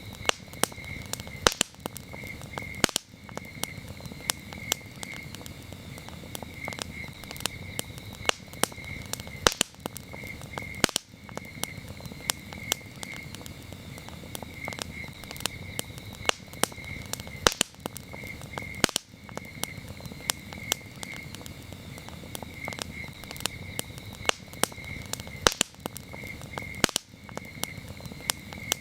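Campfire crackling with frequent sharp pops and snaps, over crickets chirping in a steady, pulsing rhythm.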